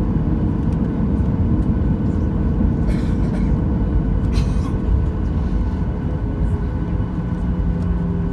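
Cabin noise of a Boeing 737-800 heard from a window seat: a steady deep rumble with its CFM56-7B turbofan engines humming. Two brief hissing noises come about three and four and a half seconds in, and a new low engine tone joins the hum near the end.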